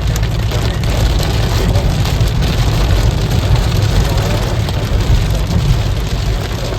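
Heavy rain hitting a moving car, with a steady low road and engine rumble underneath.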